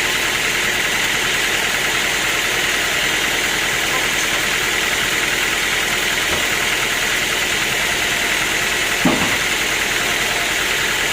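Sawmill machinery running steadily with an even, engine-like hum, with a single brief knock about nine seconds in.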